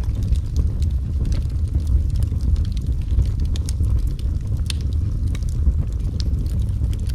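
Fire in a fireplace crackling: scattered sharp pops and snaps over a steady low rumble.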